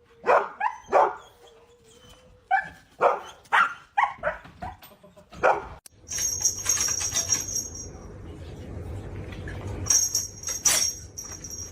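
A dog barking in short, separate barks, about nine in the first six seconds. About halfway through the sound changes to a steady hiss with a thin high whine.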